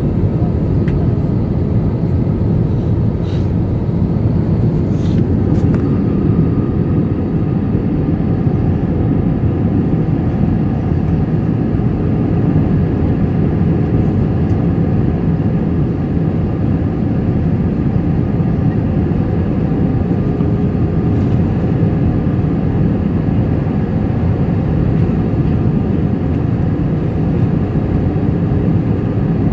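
Airliner cabin noise in flight: a steady, loud rush of jet engines and airflow with a faint steady hum underneath.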